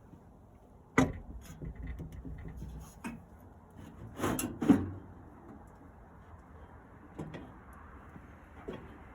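Sharp knocks and clanks of tools and metal parts being handled while a Camp Chef SG pellet smoker is taken apart, loudest about a second in and again a few times around the middle, with lighter taps near the end.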